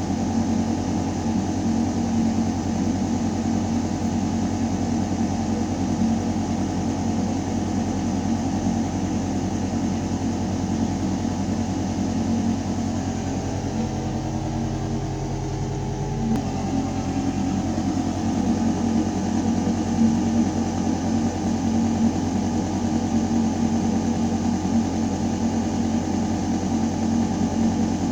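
Building ventilation system in a shaft: a steady, deep mechanical hum of air moving through metal ductwork, with a strong low tone. The tones shift briefly about halfway through, then settle back.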